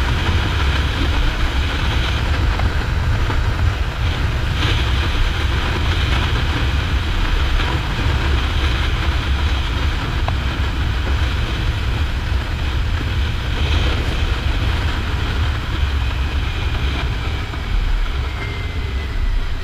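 Kawasaki Ninja 400's parallel-twin engine running at a steady cruise, with strong wind rushing over the microphone.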